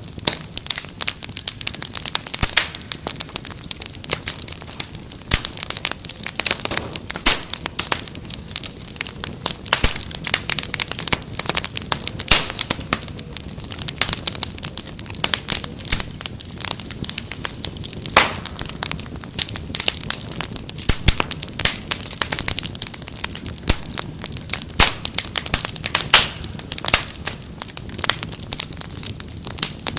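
Wood fire crackling in a fireplace: many irregular sharp pops and snaps over a steady low hiss.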